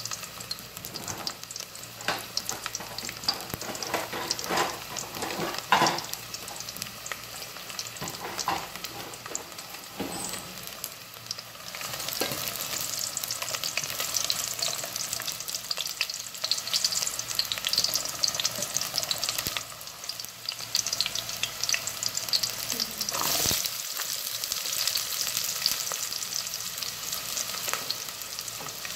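Garlic cloves sizzling in hot oil in a stainless steel pot, sautéed as the first step of the dish, with a spoon clicking and scraping against the pot. The sizzle grows louder and denser about twelve seconds in.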